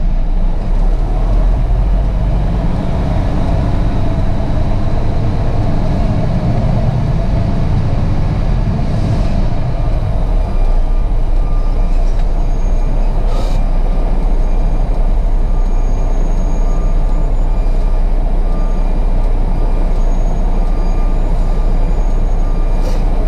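Semi truck's diesel engine and road noise from inside the cab while driving, a steady heavy drone that is deeper and stronger for about the first ten seconds, then eases. A few sharp clicks or rattles come through, twice in the middle and once near the end.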